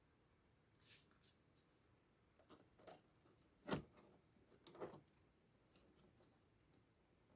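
Faint, scattered clicks and knocks from handling parts and tools while refitting a board inside a TV set, with one sharper knock a little past the middle.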